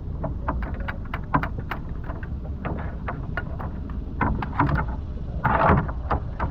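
Small boat motor running steadily at low speed, under a scatter of sharp clicks and knocks, with a louder rustle about five and a half seconds in.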